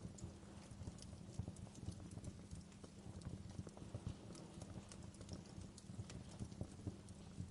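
Wood fire crackling: irregular sharp pops and snaps over a low steady rumble of the flames.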